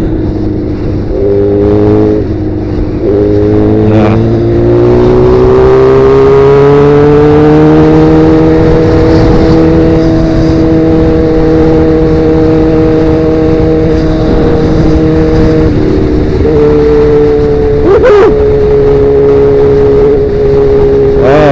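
Sportbike engine running through a Danmoto XG-1 aftermarket exhaust under way: the note climbs in pitch over the first several seconds as the bike accelerates, with brief breaks early on, then holds nearly steady while cruising, dipping briefly a few seconds before the end.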